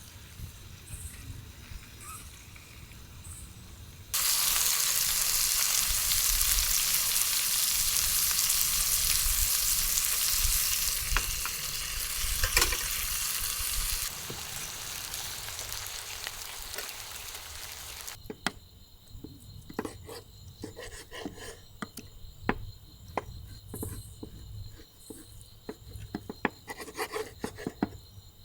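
Steak searing in a hot pan: a loud sizzle starts suddenly about four seconds in, eases somewhat partway through and stops abruptly. It is followed by a run of light clicks and knocks.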